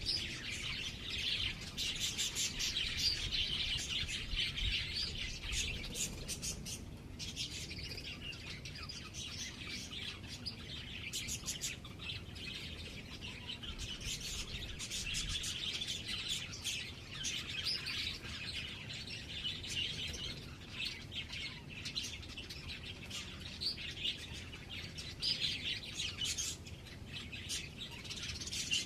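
Small birds chirping in quick, high runs of chirps, with only short pauses.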